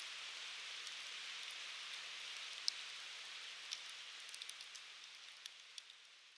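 Wood fire burning with a steady soft hiss and scattered sharp crackles and pops from the firewood, fading out over the last few seconds.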